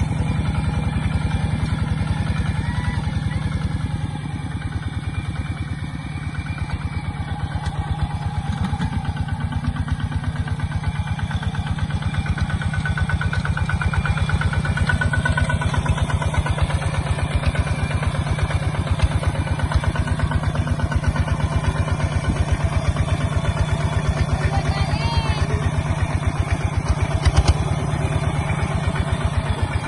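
Kubota ZT140 single-cylinder diesel engine of a two-wheel walking tractor running steadily, with rapid, even firing pulses.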